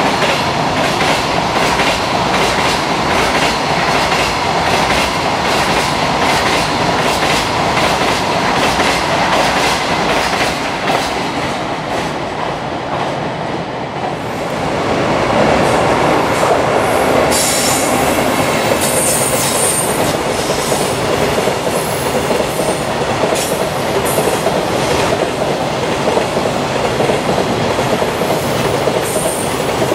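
Freight trains running past at speed, the wagons' wheels clattering rhythmically over the rail joints. The clatter eases about halfway through, then a second freight train of container wagons passes with the same clatter and thin, high-pitched wheel squeals.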